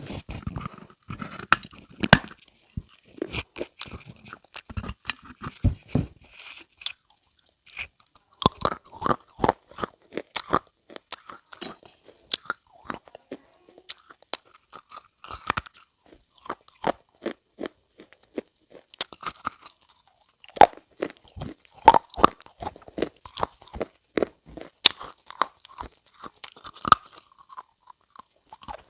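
Irregular sharp crunching close to the microphone, dense crackly clicks with a brief lull about seven seconds in.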